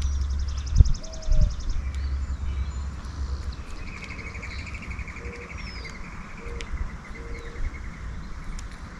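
Small songbirds singing at a backyard feeder: a fast, high trill in the first two seconds, then a lower trill from about three and a half to six seconds, with scattered chirps. A low rumble fades out over the first three seconds, and two thumps come about a second in.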